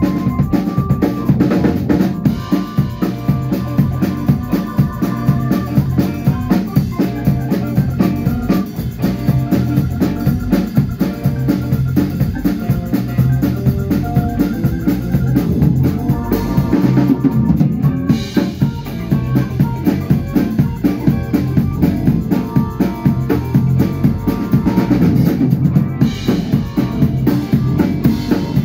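Band music with a drum kit keeping a steady beat of bass drum and snare, over bass and other pitched instruments.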